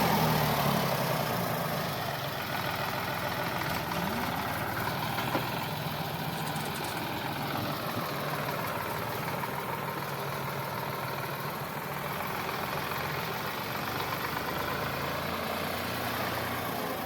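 Sonalika DI 745 tractor's diesel engine running, easing down from a louder pitch in the first couple of seconds and then holding a steady, even beat, close to idle.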